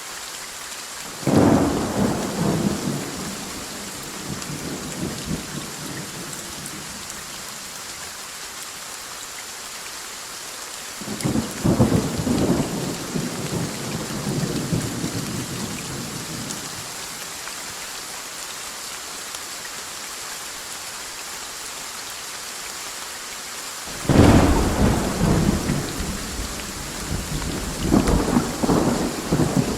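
Steady rain hiss with thunder. Three loud claps, each dying away in a rumble over a few seconds, come about a second in, about 11 seconds in and about 24 seconds in. The last one surges again near the end.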